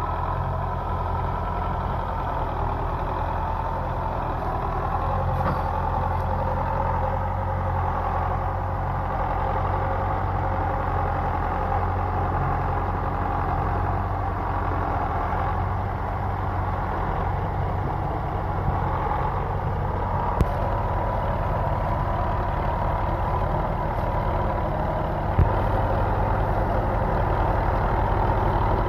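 Tractor engine running steadily under a constant throttle, with one sharp click near the end.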